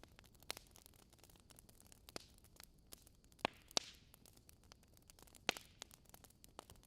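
Wood fire burning in a fireplace: logs crackling with scattered sharp pops and snaps over a soft hiss, a few louder pops in the middle.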